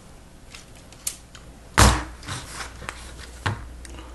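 Lego Technic plastic pieces handled and clicked together on a table: scattered light clicks and rattles, with one louder knock about two seconds in.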